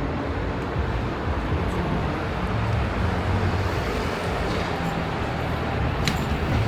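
Steady city street traffic noise, with the low hum of vehicle engines running past and a brief sharp click near the end.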